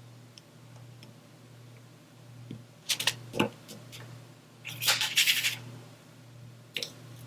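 Handling noises from diamond painting: a few sharp clicks of small plastic pieces about three seconds in, a crackly rattle around five seconds, and a single click near the end, over a faint steady low hum.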